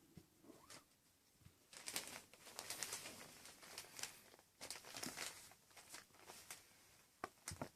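Faint, scattered rustling, scratching and light patter of six-week-old kittens playing, in short bursts with quiet gaps between.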